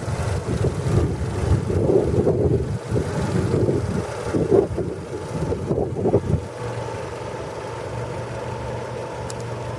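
Mitsubishi Starion GSR-X's turbocharged 2.0-litre four-cylinder engine running at idle, uneven and swelling for the first six seconds, then settling into a steady, even idle.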